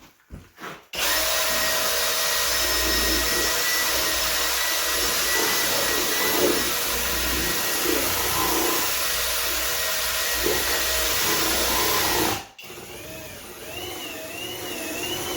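Kobalt 24V XTR brushless cordless hammer drill mixing drywall mud. It starts about a second in, runs steadily and loudly for about eleven seconds, then cuts off suddenly. A quieter whine that wavers up and down in pitch follows near the end.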